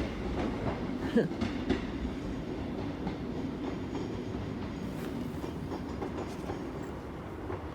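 Northern passenger train pulling out of the station: a steady low engine and wheel rumble with a few light clicks from the rails.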